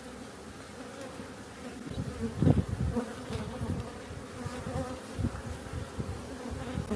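Swarm of honeybees buzzing from an open hive: a steady hum, with a louder low bump about two and a half seconds in.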